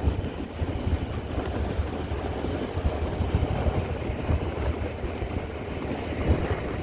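Mercury Montego driving, heard as a steady, uneven low rumble of tyres, engine and road noise.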